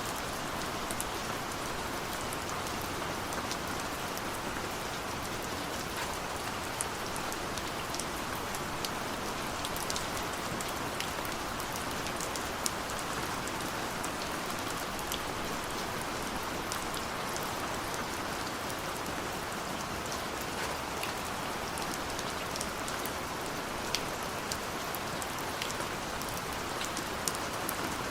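Steady rainfall with many individual drops ticking and pattering on a surface.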